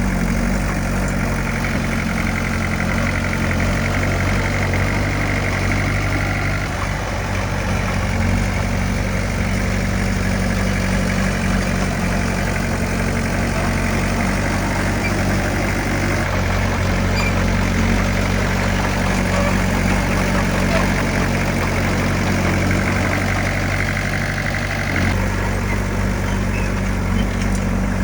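Heavy diesel engine of earth-moving equipment running steadily under work, with a steady low engine tone and a wide band of mechanical noise over it that shifts a few times.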